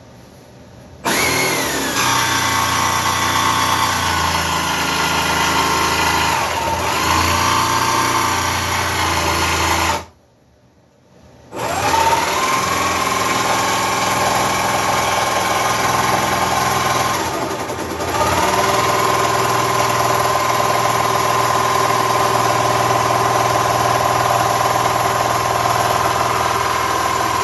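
Cordless jigsaw cutting through a wood panel, its motor whine sagging in pitch as the blade loads up. It stops about ten seconds in and starts again a second and a half later for a second long run.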